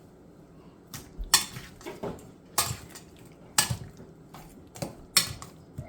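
A kitchen utensil clinking against a bowl: about seven sharp, separate clinks at uneven intervals as raw chicken strips are moved into a bowl of beaten egg.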